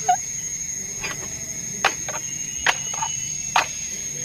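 A steady high insect drone, with a few sharp cracks or knocks that come about once a second in the second half.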